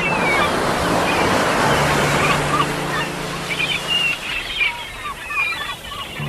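Sea waves breaking and washing up, loudest in the first few seconds, with seagulls calling in many short cries, more of them after about three seconds. A soft sustained music chord plays underneath and stops about four seconds in.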